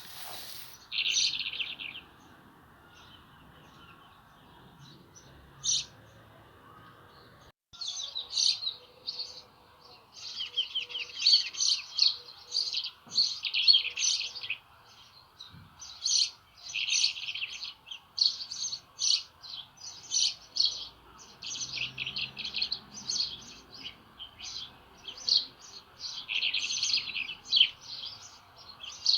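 Many small birds chirping and twittering in quick runs of notes, sparse at first and then almost continuous from about eight seconds in, over a steady rush of flowing spring water.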